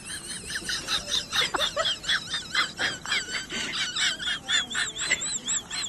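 Rapid high-pitched chirps and squeaks from an animal, several a second, turning into wavering trilled squeaks in the second half.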